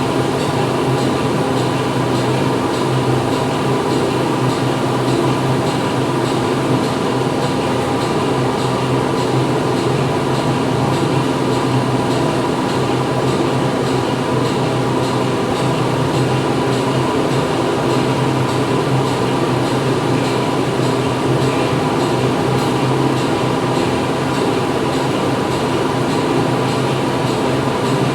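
Factory machinery running steadily: a dense mechanical hum with several steady tones over a broad noise.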